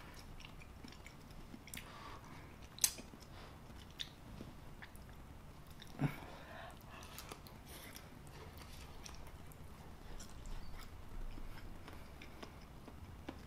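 A person chewing a mouthful of baked macaroni and cheese close to the microphone: soft, wet chewing, with sharper mouth clicks about three seconds and six seconds in.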